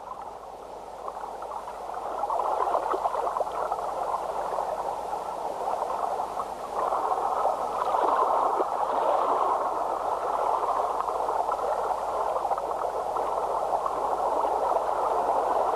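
Fast-flowing river water rushing over rocks, a steady wash that swells over the first couple of seconds and then holds.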